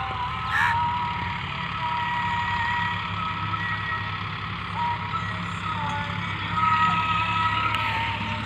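Sonalika DI 35 tractor's diesel engine running steadily under load while pulling a harrow. Over it, thin high sustained tones that hold and shift in pitch, growing a little louder about seven seconds in.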